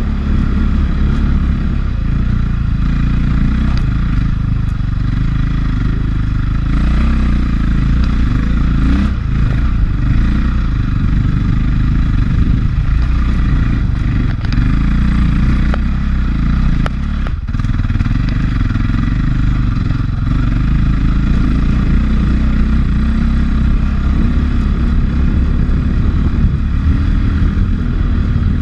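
450cc single-cylinder four-stroke dirt bike engine running continuously under way, easing off briefly twice, about halfway through and a few seconds later.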